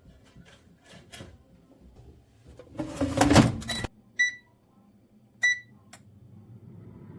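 A second of loud clattering, then two short electronic keypad beeps about a second and a half apart, and a low hum starting up near the end: a microwave oven being shut, set and switched on.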